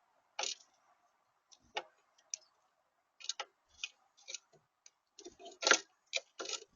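A series of irregular sharp clicks and taps, about fifteen in under seven seconds, loudest near the end.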